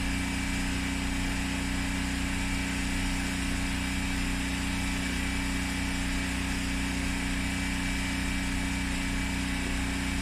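A steady low mechanical hum with a faint high-pitched whine, unchanging throughout.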